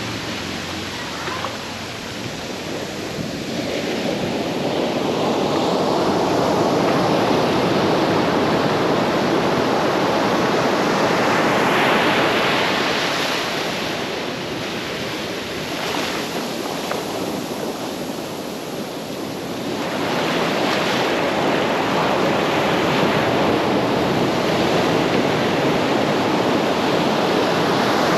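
Ocean surf breaking and washing up a beach: a continuous rush of water that swells and eases in long surges.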